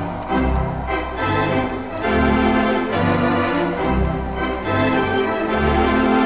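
Background organ music playing sustained chords that change about once a second.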